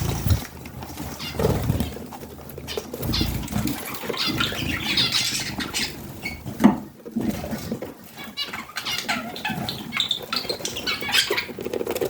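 Pet budgerigars chirping and chattering in quick, broken bursts, with a few soft thumps of wing flapping and scattered clicks and scuffles.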